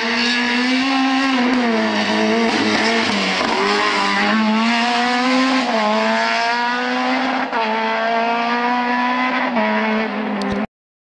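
Rally car engine revving hard, its pitch climbing and falling again and again as it works up and down through the gears. The sound cuts off abruptly near the end.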